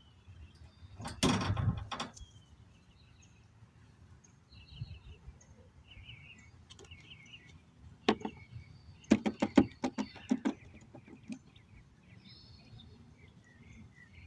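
Bantam chicken pecking at a cracked egg: a brief rustle about a second in, then a run of sharp taps of beak on shell and surface about eight seconds in. Faint high chirps come and go between them.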